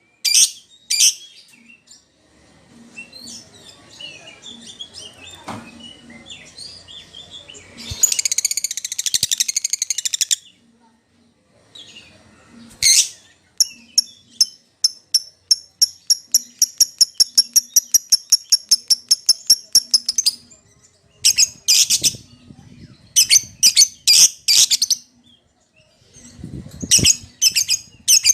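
Lovebirds calling: loud, shrill, high-pitched calls in quick clusters, with softer chatter and a dense burst of chattering. In the middle comes a long run of fast, even chirps, about four a second.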